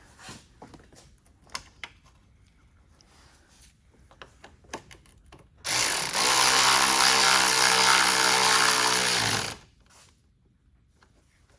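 Power tool running steadily for about four seconds, starting a little past halfway and cutting off abruptly. Before it come light clicks and knocks of parts being handled.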